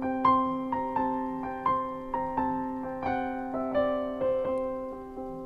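Background music: gentle piano or electric keyboard playing single notes over a held chord, a new note struck about every half second and fading away.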